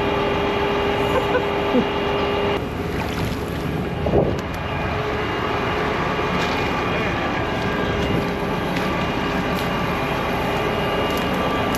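Large John Deere farm tractor's diesel engine running steadily, with a steady whine that drops away about two and a half seconds in. Wind is on the microphone.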